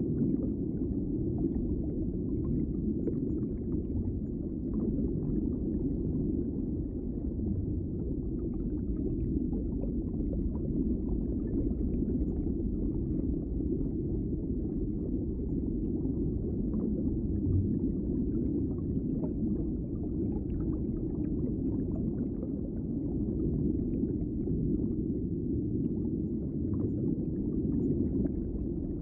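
Underwater ambience: a steady, muffled low rumble of moving water with faint scattered crackles and clicks.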